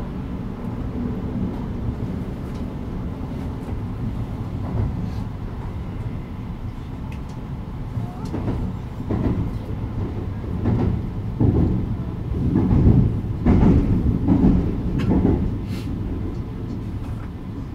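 Kintetsu 80000 series Hinotori electric train running, heard on board: a steady low rumble of wheels on rail. About halfway through comes a stretch of louder, roughly rhythmic wheel knocks.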